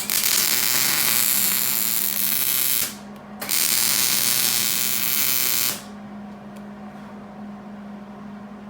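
Hobart Handler 190 MIG welder arc crackling and sizzling as it welds a rusted exhaust flange, in two bursts of about three and two and a half seconds with a short break between.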